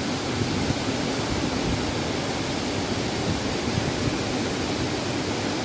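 Tall waterfall, a steady, even rush of falling water.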